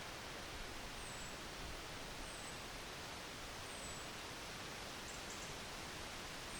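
Wind blowing steadily through trees, an even rustling hiss with no gusts or breaks. Over it come a few thin, very high, short chirps that fall in pitch, spaced a second or more apart.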